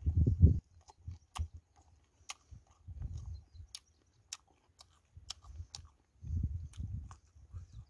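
Close-up, open-mouthed chewing of food: irregular bouts of wet chewing with many sharp smacking clicks of the lips and mouth in between.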